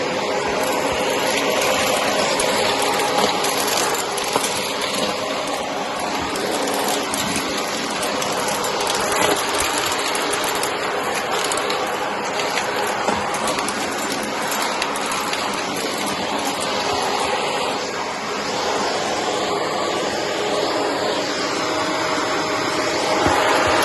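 Shark vacuum cleaner running while it sucks up bits of cardboard, a steady whoosh with a constant clatter of debris rattling through it.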